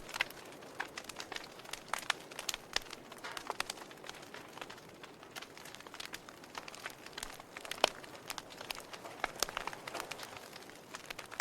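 Wood fire crackling, with irregular sharp pops and snaps over a soft steady hiss; one louder pop comes about eight seconds in.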